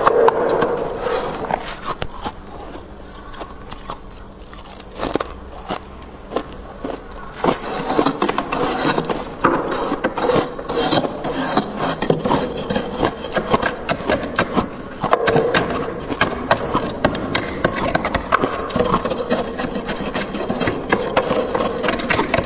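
Freezer frost being scraped, a dense crackly rasping that eases off early on, then picks up again about seven seconds in and keeps going.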